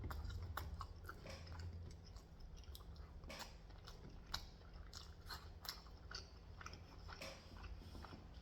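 Close-up chewing of food: quiet mouth sounds with scattered small crunches and wet clicks.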